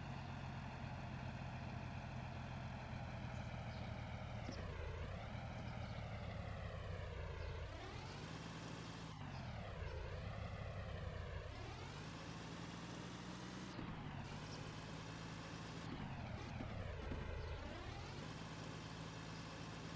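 Tractor engine running under load, a steady droning hum whose pitch sags and then climbs back three times as the engine slows and picks up again.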